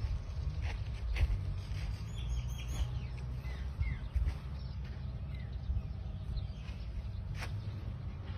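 Birds chirping in short, scattered calls over a steady low rumble, with a few sharp clicks.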